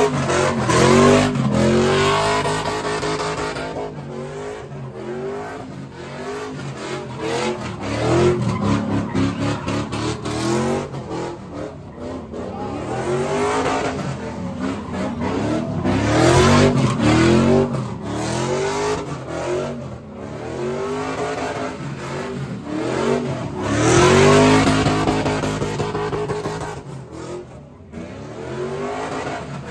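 A car engine revving hard again and again, its pitch climbing and dropping with each rev, with tyres squealing as the car spins donuts. There are several louder surges along the way.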